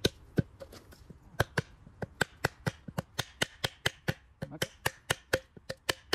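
A wooden stake being hammered into soft earth: a quick series of sharp knocks, about four a second, with a short pause about a second in.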